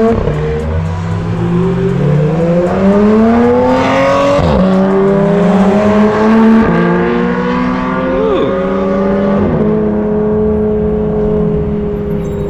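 Honda Civic Type R's turbocharged four-cylinder accelerating hard through the gears: the engine note climbs, drops sharply at an upshift about four and a half seconds in and again about two seconds later, then holds a steady, slightly falling pitch.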